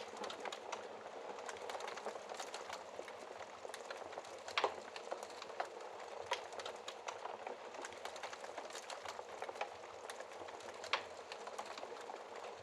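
Burning wood logs crackling in a fireplace: a steady dense patter of small crackles with a few sharper pops, the loudest about four and a half seconds in.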